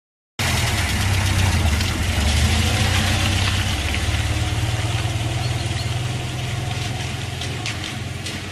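Motor vehicle engine running steadily, a low hum under a hiss, starting abruptly a moment in and slowly getting quieter.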